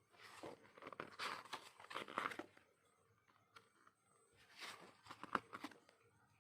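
Packaging being handled: crinkling and tearing of wrapping in two rustling spells, the first lasting about two and a half seconds and the second starting just after the four-second mark.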